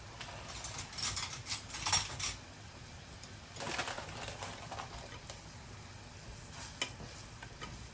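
Kitchen handling sounds while making instant noodles: a few short bursts of rustling with light clinks of utensils or dishes, and a sharp click near the end.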